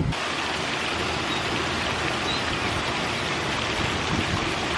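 Steady, even rush of running water that starts and stops abruptly.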